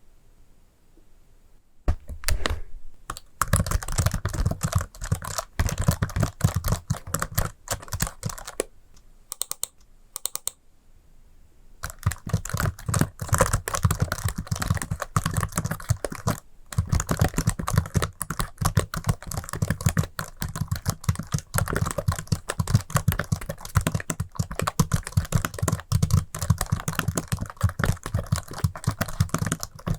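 Rapid, dense tapping and clicking on an object close to the microphone, an ASMR tapping trigger. It starts about two seconds in and runs in fast bursts, with brief pauses.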